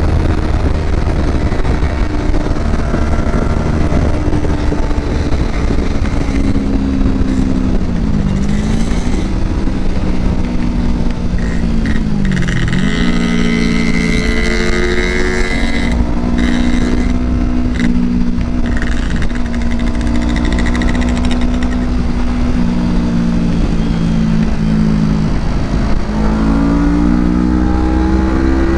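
Kawasaki Ninja 250 motorcycle engine heard while riding. The engine note holds mostly steady, dips sharply and picks back up twice in the first half, then climbs near the end as the bike accelerates.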